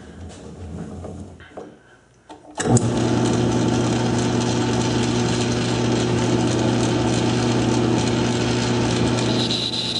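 A few faint handling clicks, then about two and a half seconds in the South Bend lathe is switched on and runs steadily, a motor hum with gear whine. A higher whine joins near the end.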